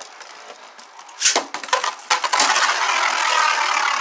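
Beyblade spinning tops launched into a plastic stadium: a sharp rip and clatter about a second in, then from about two seconds in a steady whirring rattle as the tops spin and scrape against each other and the stadium.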